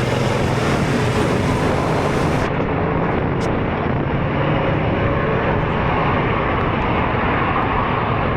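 Vehicle engine running at road speed under steady road and wind noise. A high hiss cuts off suddenly about two and a half seconds in, and a faint engine tone rises slightly later on.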